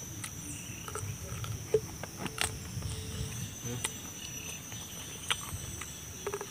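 A person chewing a mouthful of crunchy raw green papaya, with sharp crunches and wet mouth sounds every second or so, and a fresh bite into the fruit near the end. A steady insect drone sounds in the background.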